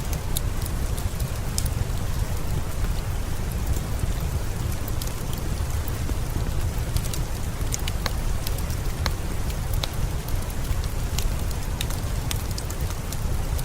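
Steady rain: a constant hiss over a deep low rumble, with scattered sharp ticks throughout.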